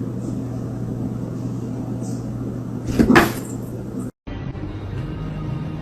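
A steady low hum, then one sudden loud knock and clatter about three seconds in. A second later the sound cuts out abruptly.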